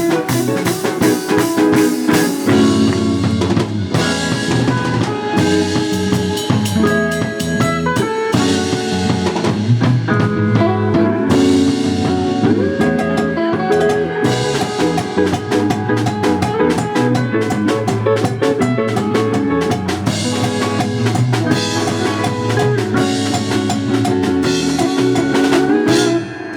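Live band playing an instrumental passage: a drum kit hit hard and fast over sustained guitar and bass lines.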